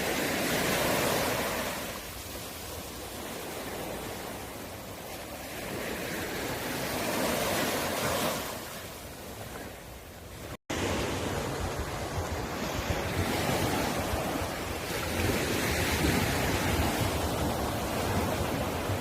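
Sea waves breaking and washing up a beach, swelling and easing in slow surges. A brief dropout a little past halfway marks a cut, after which wind buffets the microphone with a low rumble under the surf.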